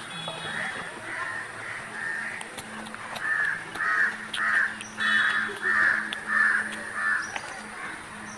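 Crows cawing, a long run of harsh calls about two a second, loudest in the middle.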